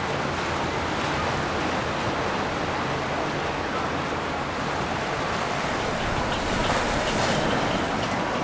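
Steady rush of churned river water from boat traffic, with wind on the microphone and a low rumble underneath; the hiss grows a little louder for a moment about two-thirds of the way through.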